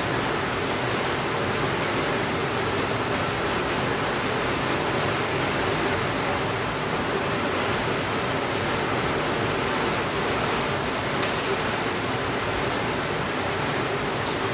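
Steady rainfall, an even hiss with no pauses, with a few faint light ticks in the last few seconds.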